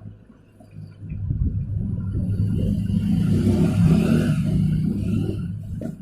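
A motor vehicle's engine rumble that swells about a second in, is loudest around four seconds, and dies away near the end.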